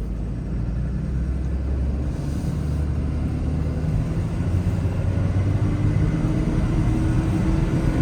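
Cummins turbo-diesel engine of a Ram 5500 pulling as the truck drives, its note and loudness rising gradually.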